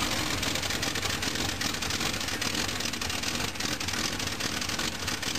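1967 Dodge truck's big-block V8 running steadily just after a cold start, with a rapid ticking clatter. The engine is cold-blooded, slow to settle when cold.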